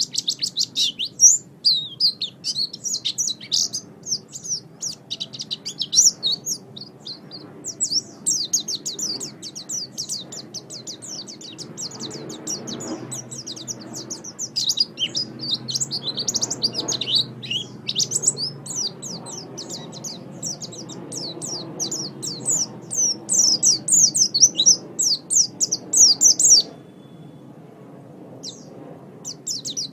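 Pleci (white-eye) singing a fast, high, chattering warble of rapid chirps and trills, breaking off for about three seconds near the end before starting again.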